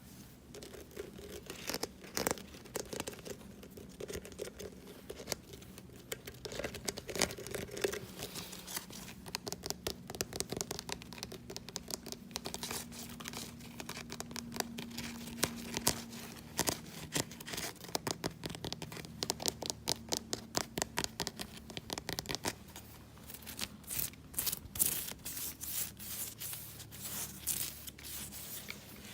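Fast, aggressive ASMR tapping and scratching: a dense run of quick clicks and scratches, busiest and loudest in the last several seconds.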